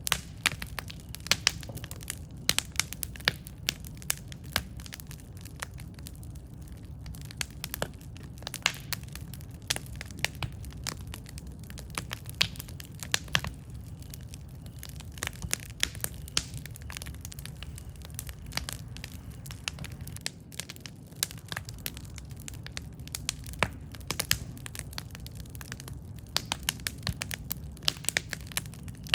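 Campfire burning, with irregular sharp pops and crackles over a steady low rumble of the flames.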